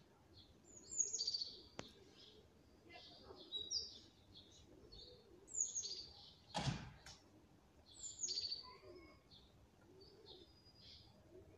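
Small birds chirping, short high calls that fall in pitch, coming in groups every second or two. A single thump sounds about two-thirds of the way through.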